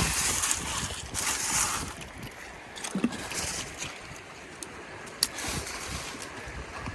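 Creek water splashing and sloshing, with louder surges in the first couple of seconds, then a softer wash broken by a few sharp clicks.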